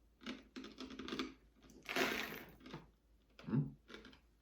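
Roasted whole coffee beans giving a run of small, crisp clicks and crunches, in short irregular bursts.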